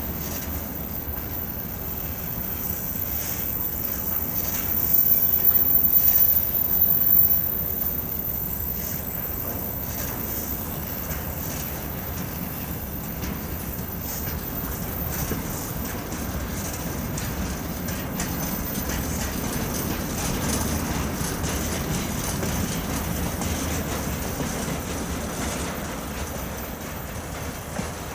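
Freight train wagons rolling past through a curve: wheels knocking over rail joints, loudest about five to seven seconds in, with a high wheel squeal in the curve in the later part.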